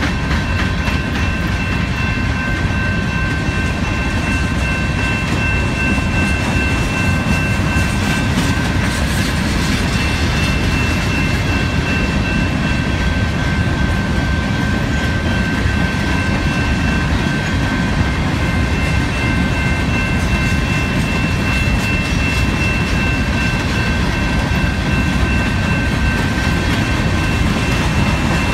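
Loaded coke hopper cars of a freight train rolling past, a steady loud rumble and clatter of wheels on rail, with a steady high-pitched tone held over it.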